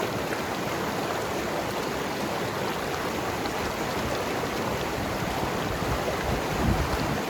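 Mountain river rushing and gurgling over rocks, a steady dense flow of water. A brief low surge about six and a half seconds in.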